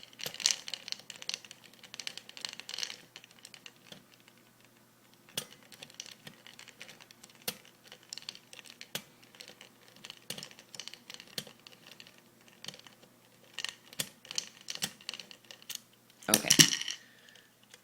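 A small screwdriver backing out a screw and parts of an airsoft AK electric rifle being handled: scattered small clicks and light scrapes, with a louder scrape about a second before the end.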